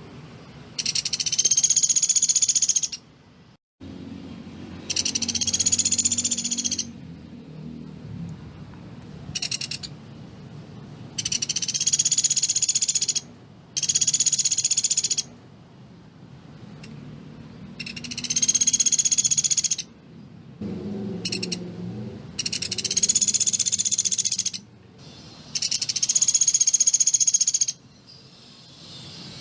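Pelatuk beras bird calling in rapid, dense high-pitched trills, the 'tembakan' (shooting) call kept as a training song for other cagebirds. About nine trills of roughly two seconds each come with short pauses between them.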